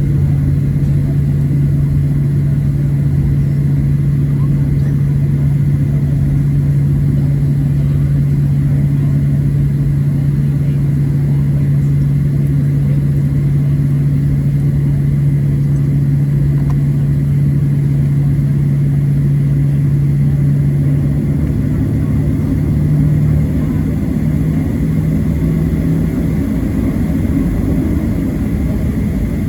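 Cabin noise of a Boeing 737-700 on the taxi, its CFM56-7B turbofans running at low taxi power: a steady drone with a strong low hum, which wavers and shifts in pitch a little about two-thirds of the way through.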